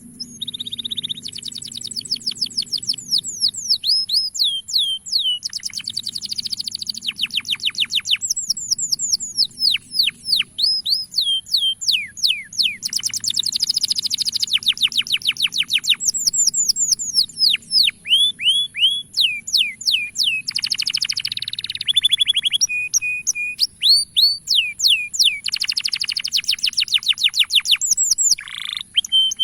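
Male domestic canary singing: long, fast trills of quick falling notes, several to a dozen a second, changing from one rolling phrase to the next with hardly a break.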